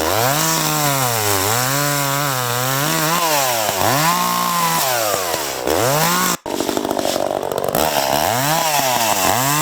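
Small Echo two-stroke chainsaw running and cutting into a tree, its pitch climbing and dipping again and again as the chain loads in the wood and the throttle is worked. The sound cuts off sharply for an instant about two-thirds of the way through, then the saw is running again.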